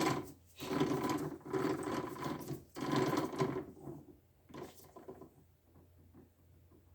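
Metal rattling and clicking as a milling cutter head is fitted and turned in a lathe chuck: four dense bursts over the first three and a half seconds, then a few fainter clicks.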